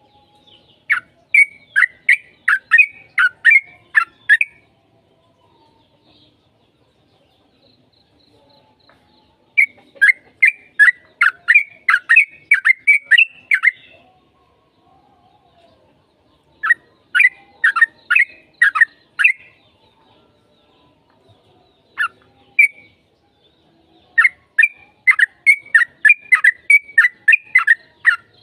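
Yellow-vented bulbul (trucukan) singing its fast, bubbling song in four bursts of about three notes a second, each burst lasting three to five seconds with short pauses between. This is the long-phrased 'gacor' song used as a lure to make other bulbuls answer.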